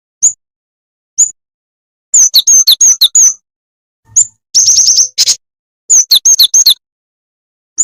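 High-pitched, loud chirping of the songbird known in Indonesia as jing-jing, a bird-catching lure recording. Single sharp chirps come about once a second, broken in the middle by three quick runs of rapid chirps.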